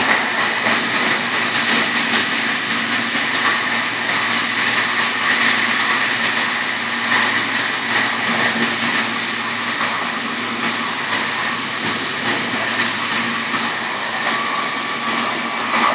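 VR Sr2 electric locomotive and the coupled InterCity2 coach running at high speed, about 120–160 km/h. The sound is a loud, steady rush of wheels on rail and air at the coupling, with a steady whine on top.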